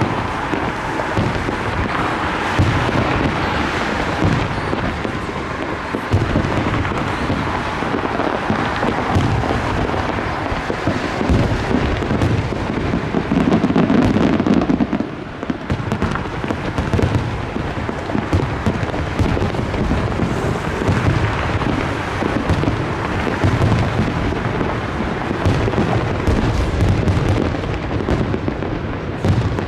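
Fireworks display in a dense, continuous barrage: many booms overlapping one another with no pause, with a louder, deeper stretch about halfway through.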